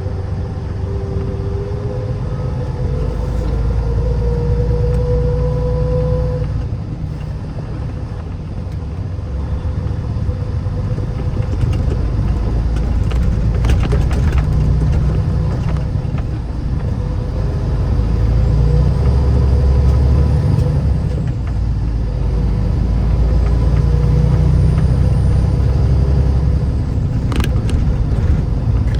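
A car being driven, its engine and tyres making a steady low rumble that swells and eases, with a couple of brief clicks.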